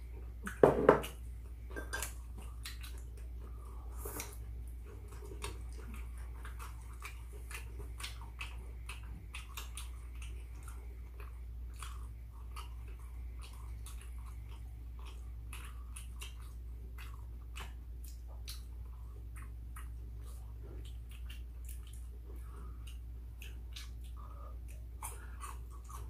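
Close-miked chewing and biting of seasoned fried chicken and rice, with many small clicks and mouth smacks. One louder short knock comes about a second in, over a low steady hum.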